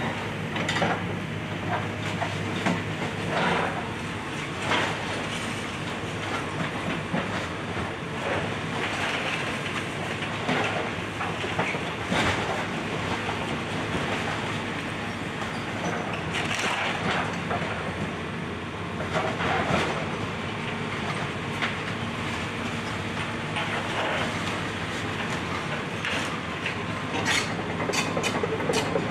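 Excavator's diesel engine running steadily while the house is torn down, with irregular cracking and crunching of wood and debris as it breaks.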